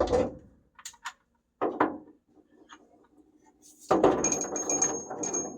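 Hand tools clinking and rattling, metal on metal: a couple of light clicks, a short clatter, then a longer spell of rattling near the end.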